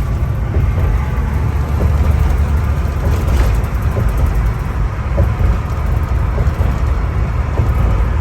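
Semi truck on the move, heard from inside the cab: a steady low drone of engine and road noise.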